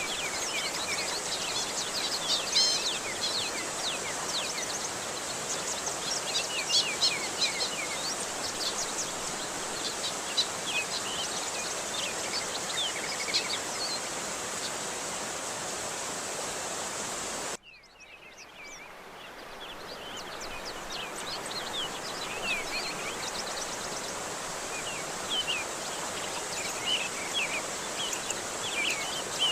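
Steady rushing water with many small birds chirping in quick, high notes over it. About two-thirds of the way through, the sound cuts out abruptly and then fades back in over a few seconds, as at a loop or edit point.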